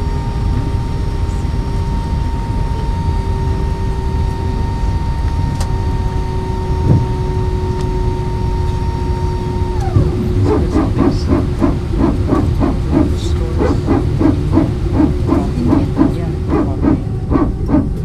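Airbus A320's power transfer unit (PTU) barking inside the cabin: about ten seconds in, a steady whine cuts off and a rapid, rhythmic bark begins, a few pulses a second. The barking is the sign of the aircraft taxiing on one engine, the PTU pressurising one hydraulic system from the other.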